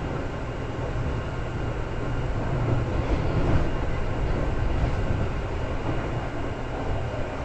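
Seibu 2000 series electric train running, heard from inside the car: a steady rumble of wheels on rail that swells slightly a few seconds in.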